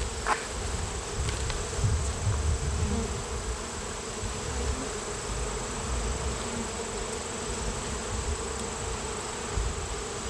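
Honeybees from an open Layens hive crowded with bees buzzing in a steady hum, with an uneven low rumble underneath.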